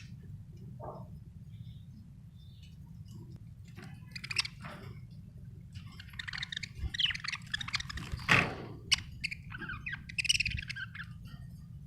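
Budgerigars chirping and chattering in bursts over a steady low hum, with a louder call about eight seconds in.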